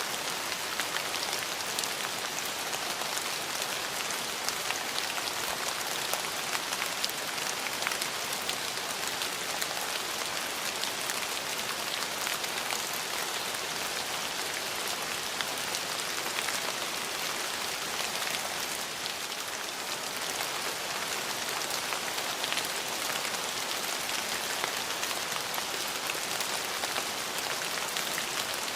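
Steady rain falling, a dense hiss with many small drop ticks, at an even level.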